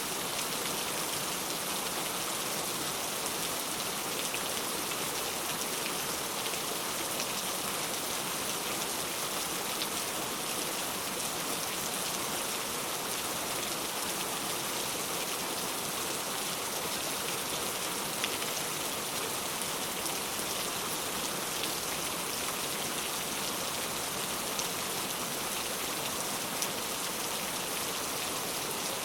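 Steady rain falling and pattering on a surface, with faint scattered drops ticking throughout.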